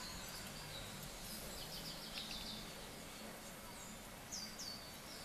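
Faint birds chirping over a steady low background hum: a quick run of short high chirps, then two downward-sweeping calls near the end.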